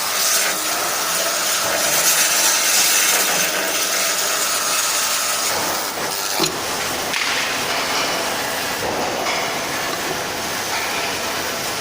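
Electric arc welding on stainless steel: a steady, loud hiss with a crackle, and one short sharp click a little past halfway.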